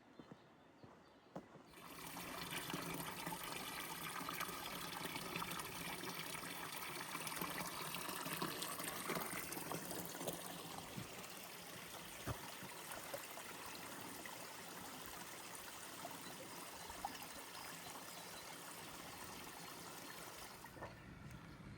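Running water trickling and splashing, a steady rushing that comes in about two seconds in and drops back down near the end.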